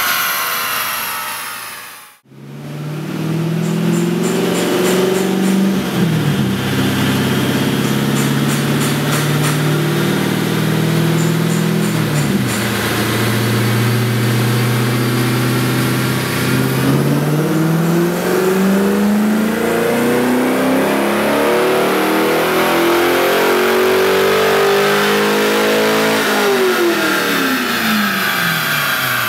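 A C5 Corvette Z06's LS6 V8 with a cat-back exhaust, run on a chassis dyno. Revs fall away, the sound cuts out briefly near the start, then the engine runs up through the gears with two drops in pitch at the shifts. A long wide-open-throttle pull follows, its pitch rising steadily for about ten seconds before the throttle is lifted and the revs fall.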